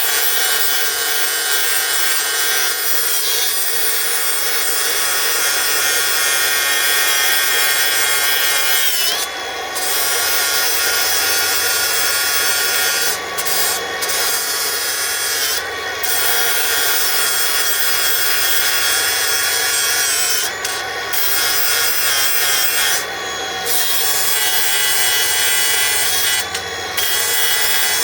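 Milwaukee M18 Fuel 3672-20 cordless angle grinder grinding a solid metal billet: a steady high whine with a gritty hiss. The disc eases off the work for a moment about seven times, and the hiss briefly drops away each time.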